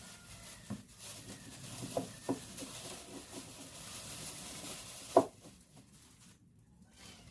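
A steady hiss with a few knocks. The hiss stops about five seconds in, just after the loudest knock.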